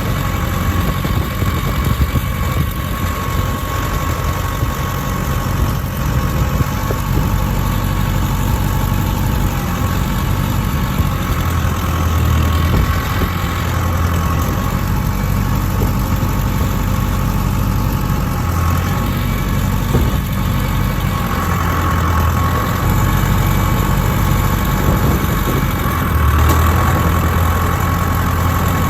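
Engine idling steadily, with a few small swells in its low hum.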